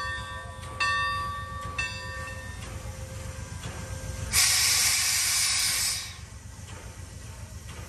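Steam locomotive's bell ringing in strokes about a second apart, then a loud burst of steam hissing for under two seconds, over a steady low rumble from the engine.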